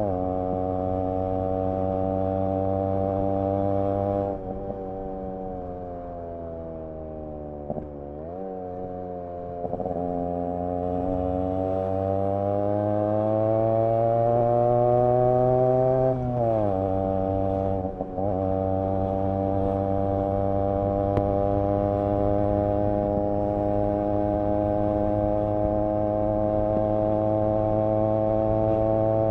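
Yamaha RX 100's single-cylinder two-stroke engine and exhaust under way. The note sags slowly, then climbs as the bike accelerates, drops abruptly a little past halfway through, and then holds steady.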